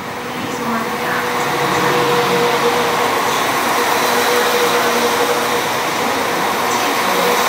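Transport for Wales diesel multiple unit running past along the platform: a steady engine and transmission hum with a held mid-pitched whine over the rumble of the wheels, growing louder over the first two seconds.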